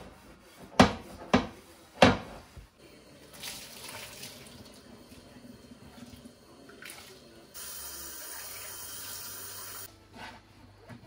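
A few sharp knocks in the first two seconds, then water running from a tap for a couple of seconds as a steady hiss, shut off abruptly near the end.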